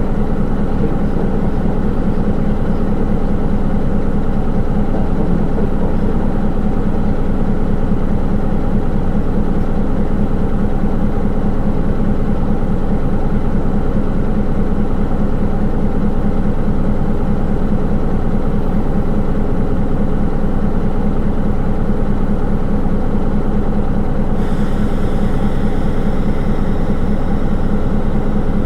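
Inside a Hino Rainbow II SDG-KR290J1 automatic-transmission city bus: the diesel engine runs steadily at an even pitch. About 24 seconds in, a faint higher hiss joins it.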